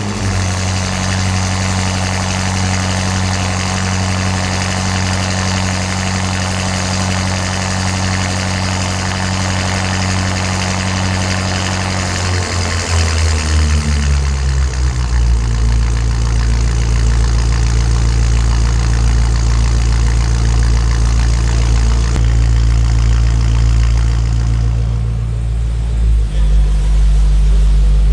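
BMW M5 twin-turbo V8 with a Mansory sport exhaust idling steadily just after start-up, on a raised idle that drops to a lower, deeper idle about twelve seconds in, then shifts again near the end.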